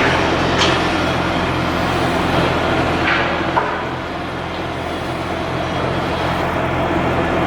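Cargo ship's diesel engine running steadily under way, a constant low hum under a broad rushing noise.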